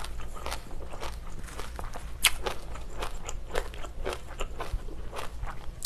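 Close-miked chewing of a mouthful of spicy pork rib stew with bean sprouts: irregular crunching and wet mouth clicks, one sharper click about two seconds in.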